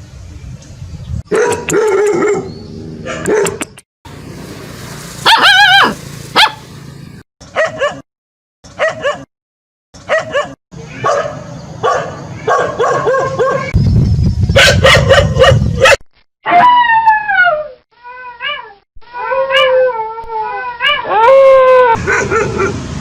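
A string of short dog clips: barking, howling and whining calls, some short and some drawn out with falling pitch, broken by abrupt cuts and brief silences between clips.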